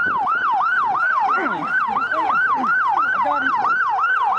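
Police siren in fast yelp mode: a rapid, evenly repeating rise-and-fall wail of about three and a half sweeps a second.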